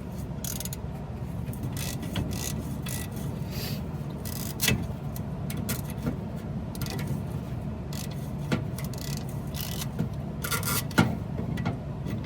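Hand ratchet clicking in short, irregular runs, with wrench and metal scraping, as exhaust manifold bolts are worked loose on a Chevy C10. A steady low hum runs underneath.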